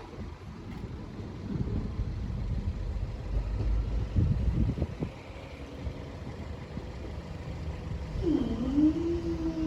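Road vehicles passing with a low engine and tyre rumble that swells twice. Near the end an engine note dips and then rises to a steady pitch.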